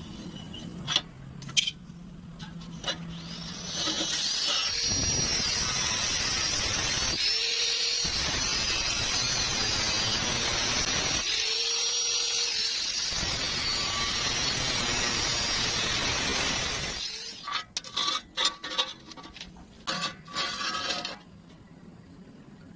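A power tool running steadily for about thirteen seconds and then stopping, followed by a string of sharp clicks and knocks.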